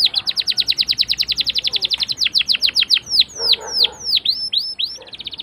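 Canary singing a long rolling song: a rapid trill of repeated falling notes, about ten a second, slows into a few longer falling whistles about three and a half seconds in, then breaks into a faster, denser trill near the end.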